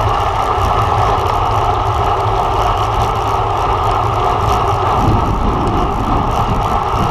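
Steady wind rush and low rumble on the microphone of a camera carried on a road bike at racing speed.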